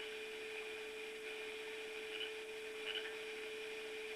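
Steady faint hum at one even pitch with background hiss from the recording, and a couple of faint short blips about two and three seconds in.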